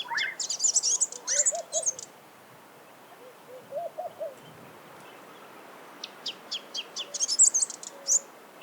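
Sunbird singing: a burst of fast, high-pitched, twittering notes lasting about two seconds, then a pause, then a second similar burst about six seconds in.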